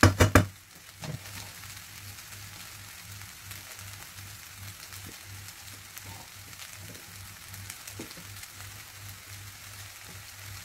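Egg fried rice sizzling gently in a frying pan, opening with a few sharp knocks of a wooden spatula against the pan. A low pulsing hum runs underneath.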